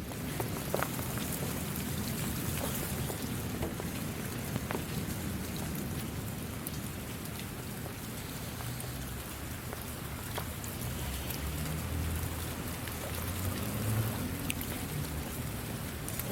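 Steady rain falling, with scattered sharp hits of single drops.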